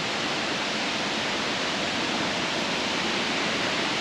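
Brandywine Falls, a waterfall, making a steady, even rush of falling water.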